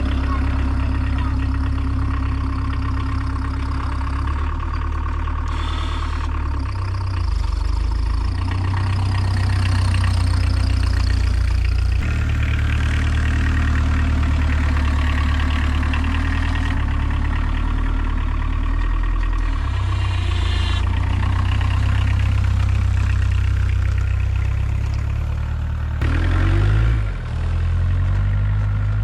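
Diesel engine of a homemade 4x4 UTV running steadily while pushing snow with a plow. The engine speed shifts a few times, with a short dip near the end.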